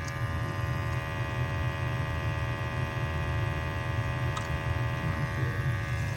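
Gas furnace running, giving a steady mechanical hum with a whine of several steady tones over it.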